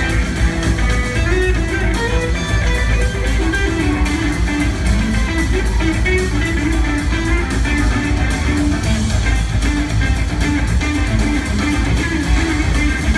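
Live rock band jamming: lead electric guitar lines over bass and drums, loud and continuous.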